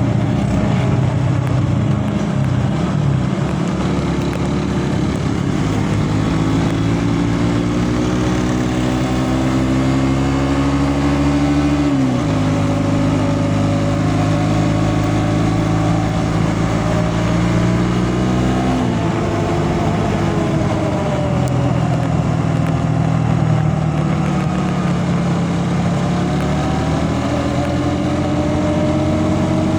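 Vehicle engine running under way. Its pitch climbs slowly, then drops sharply twice, about twelve and nineteen seconds in, as gears change, and climbs again after each drop.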